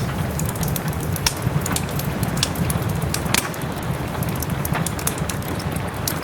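Wood fire crackling in a fireplace, with scattered sharp pops, over a steady wash of soft rain.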